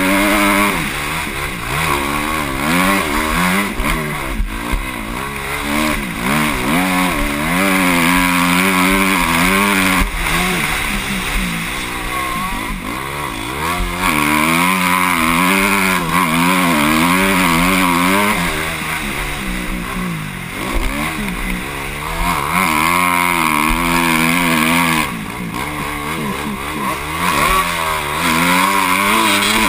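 Motocross bike engine revving hard and easing off again and again as the bike is ridden around the track, heard close up from a helmet-mounted camera over a rush of wind. The pitch climbs and falls with each burst of throttle, with brief dips where the throttle is shut.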